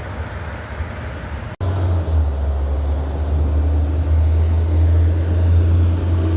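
Heavy truck engine running past with a loud, deep rumble that builds slightly. It comes in on a sudden cut about a second and a half in, after lighter road noise.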